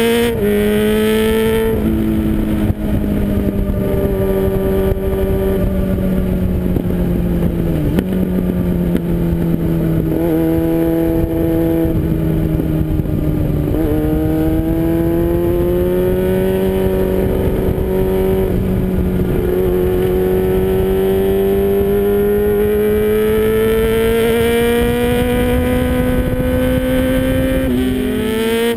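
2000 Yamaha R6's 600 cc inline-four running through an MTC aftermarket exhaust: a steady engine note whose pitch drifts slowly up and down, with a couple of brief dips, and a sharp drop then rise near the end.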